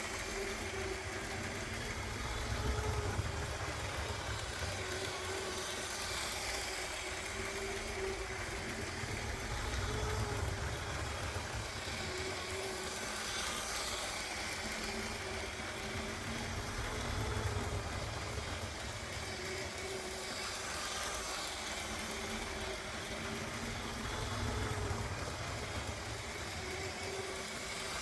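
LEGO 9V electric train motor running at low speed on plastic track, a steady hum, swelling louder about every seven seconds as the train comes round the oval.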